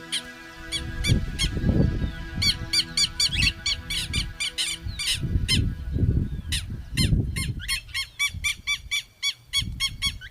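A bird calling in rapid runs of short chirps, about four to five a second, with gusts of wind rumbling on the microphone.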